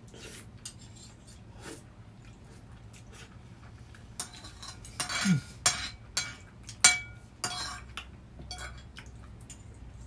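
Tableware clinking during a meal: chopsticks and cutlery knocking against plates and bowls, a string of separate clinks, some ringing briefly, busiest and loudest a little past the middle.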